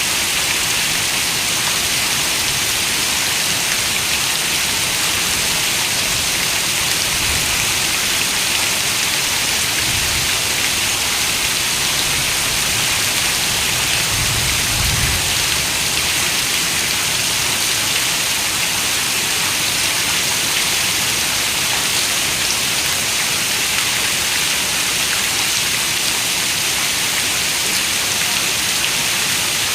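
Steady rain falling: a dense, even hiss of raindrops, brightest in the high range, with a soft low rumble about halfway through.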